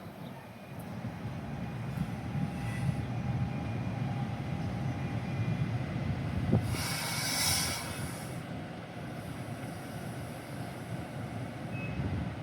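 Passenger train running past on the rails, a steady low rumble of wheels and cars that builds about a second in. Midway a sharp click is followed by a burst of hissing that lasts about a second and a half.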